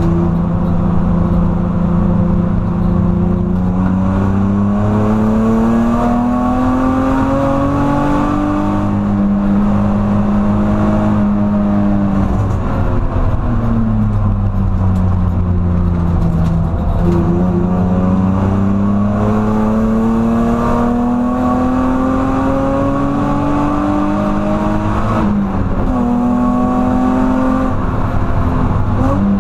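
BMW E46 330Ci's 3.0-litre straight-six heard from inside the cabin, pulling up through the revs, easing off into a slow fall about twelve seconds in, then climbing again and dropping suddenly with a gear change near the end. Steady road and tyre noise runs underneath.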